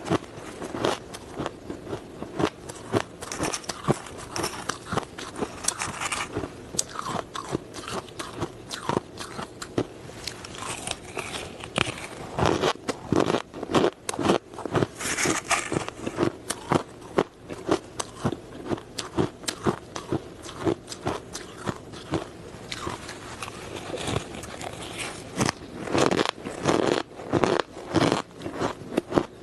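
Ice being bitten and chewed close to the microphone: a dense, irregular run of sharp cracks and crunches, several a second.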